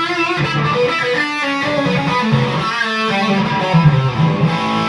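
Electric guitar played through an Octavia-style octave fuzz pedal with both fuzz and octave engaged, into an overdriven valve amp: a heavily distorted riff of held notes with an added octave-up tone.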